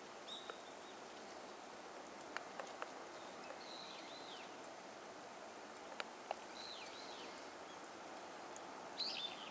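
Great spotted woodpecker pecking: a few sharp knocks in small clusters, with short arching bird calls now and then over a steady outdoor hiss.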